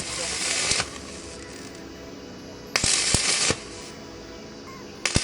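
Three short bursts of loud crackling hiss, each under a second, starting and stopping sharply, with faint background music beneath.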